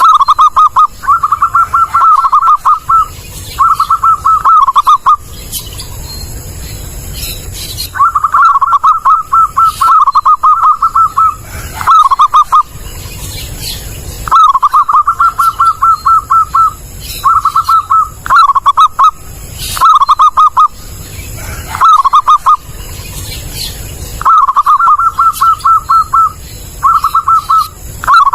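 Zebra dove (perkutut) cooing: loud phrases of rapid, staccato coo notes at much the same pitch, repeated again and again with short pauses between phrases and a longer pause of about three seconds after the first few.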